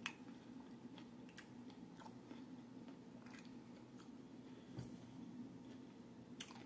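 Faint chewing of a mouthful of cucumber salad: soft, irregular mouth clicks and small crunches over a low steady hum.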